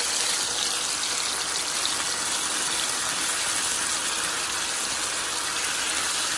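Parboiled potato pieces sizzling steadily in hot vegetable oil in a frying pan.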